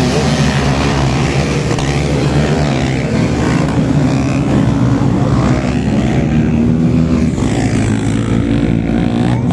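Racing motorcycle engines running loud and steady on a race circuit.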